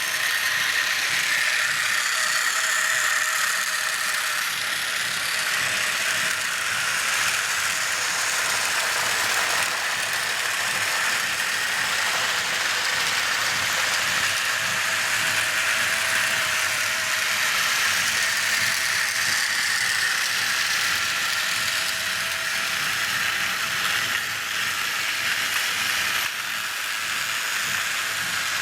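Battery-powered Tomy toy trains running on track: a steady motor-and-gear whine over a fine mechanical rattle, drifting slowly in pitch.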